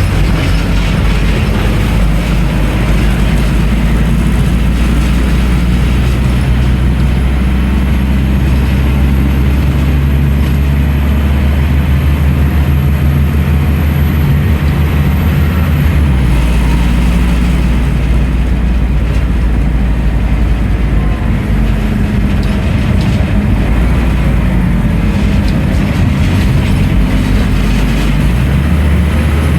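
Scania N310UA articulated city bus running: a steady, loud diesel drone with road rumble. The low drone shifts in pitch about halfway through.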